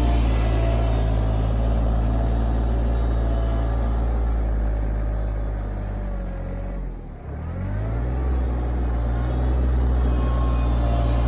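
Kioti RK24 compact tractor's diesel engine running steadily; about two-thirds of the way through its revs drop briefly and then climb back up.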